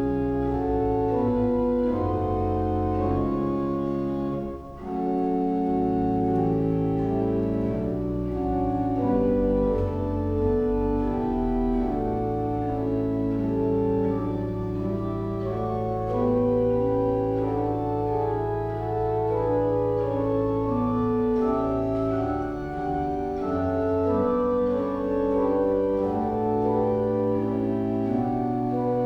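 Church organ playing a closing voluntary: sustained chords over long-held low bass notes, changing harmony every second or two, with a brief break about four and a half seconds in.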